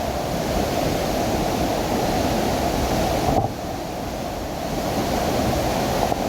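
A powerful waterfall close by: a steady, loud rush of falling water, strong enough to drench clothes. The rush drops a little about three and a half seconds in.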